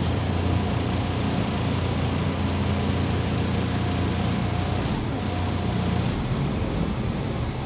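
MAZ 203.065 city bus running, heard from inside the passenger cabin: a steady low engine hum with road and cabin noise, and a faint high whine that comes and goes a few times.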